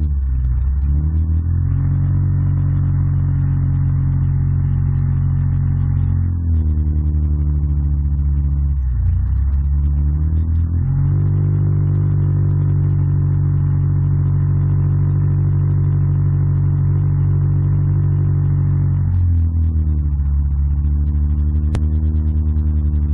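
Yamaha ATV engine running under load, holding a steady pitch for several seconds at a time. Twice, around seven and nine seconds in, the revs drop and climb back, and they dip again near the end.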